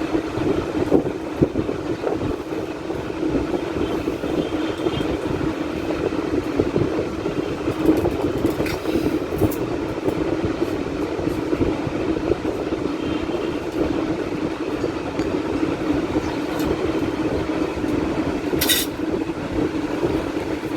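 A steady mechanical drone with a rushing noise, unchanging throughout, and one short click near the end.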